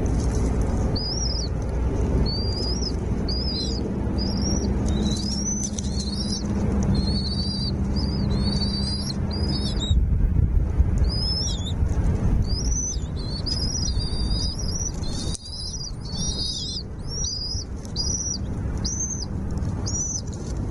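Small songbirds chirping: a quick, continuous run of short, high, arched chirps, several a second, over a steady low rumble.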